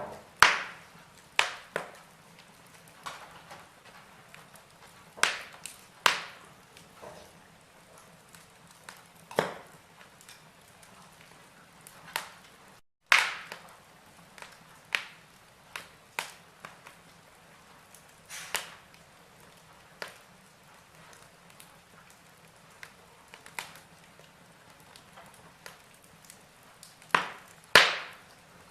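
Wood fire in a fireplace crackling: burning logs give irregular sharp pops and snaps, some much louder than others, over a soft steady hiss. A very brief gap of silence falls just before the thirteenth second.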